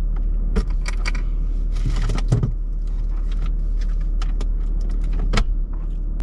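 Keys jangling and clinking in a string of short, sharp metallic clicks while someone hunts for them, over a steady low rumble.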